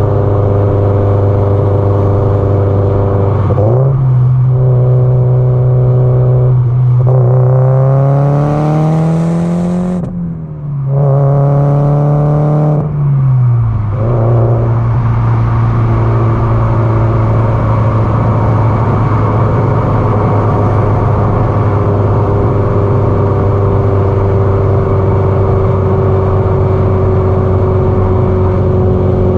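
Subaru Impreza GDB-E turbocharged flat-four exhaust note, cruising steadily, then accelerating: the engine pitch climbs for several seconds, drops briefly at a gear change about ten seconds in, climbs again, then falls back to a steady cruise from about fourteen seconds on.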